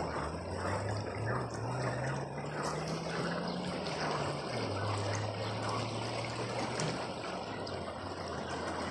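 Water trickling and flowing steadily, with a low hum under it that rises in pitch, drops back about halfway through, then holds steady.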